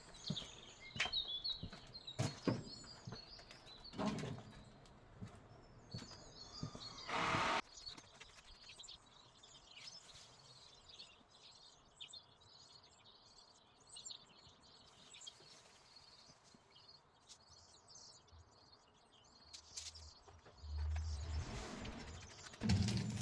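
Birds chirping in the background, with scattered snaps, cracks and rustling of pruned branches being gathered up. There is a louder rustle about seven seconds in.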